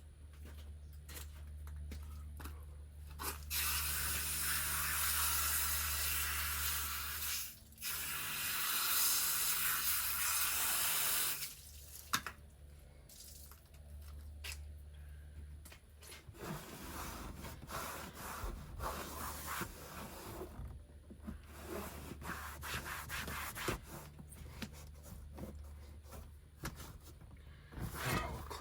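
A loud steady hiss lasting about eight seconds, briefly broken halfway, then rubbing and scrubbing with scattered clicks, from cleaning work with water and a brush on the vehicle's interior.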